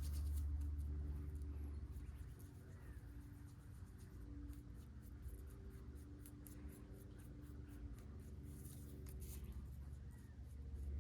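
Short, scratchy rubbing strokes of hand work on a small tool, like sanding or scraping, over a steady low hum. The hum is louder at the start and again near the end.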